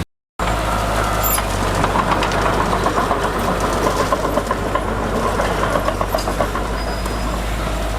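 Heavy diesel earthmoving machine running steadily, with quick irregular clanking and rattling over a low engine drone. The sound cuts out for a moment right at the start.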